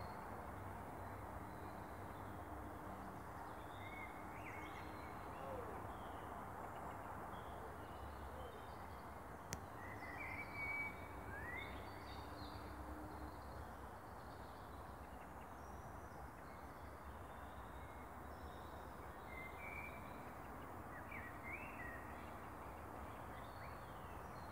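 Songbirds calling with short chirps and brief sliding notes, scattered throughout, over a steady low outdoor background hiss. One faint click comes about nine and a half seconds in.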